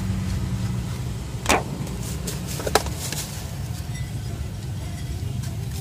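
Steady low rumble of road traffic, with two sharp knocks about a second and a half in and again a little over a second later.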